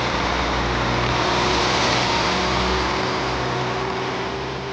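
Northern Class 195 diesel multiple unit passing close at low speed, its underfloor diesel engines and wheels on the rails running steadily, then easing off in the last couple of seconds as the train draws away.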